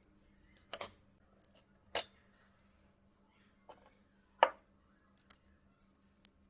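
Irregular sharp clicks and snips from small hand tools working on a phone, with three louder snaps about one, two and four and a half seconds in.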